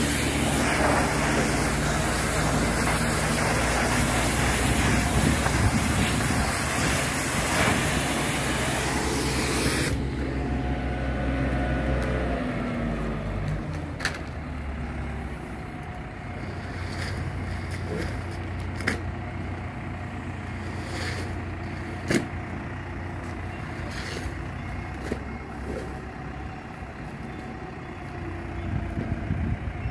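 Engine running steadily, with loud hissing over it for about the first ten seconds; then it drops suddenly to a quieter steady hum with a few sharp knocks.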